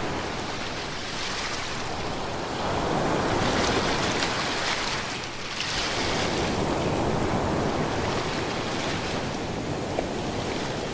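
Ocean surf: waves rolling in and washing continuously, with one wave swelling louder about three seconds in and easing off just after five seconds.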